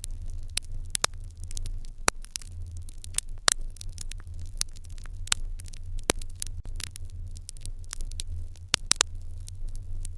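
Wood fire in an irori hearth crackling, with irregular sharp pops a few times a second over a steady low rumble.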